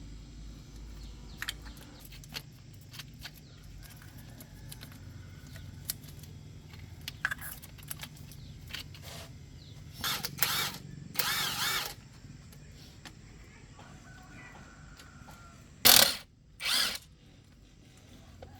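A handheld power tool runs in short bursts: twice around ten seconds in, then two louder, shorter bursts near the end. Between the bursts there are scattered clicks and clinks of tools over a low steady hum.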